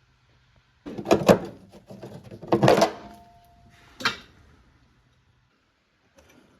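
Three bursts of knocking and rattling, as of objects being handled or set down. A pair of sharp knocks comes about a second in, a clattering cluster a little before the three-second mark, and a single knock about four seconds in. A faint low hum stops shortly after.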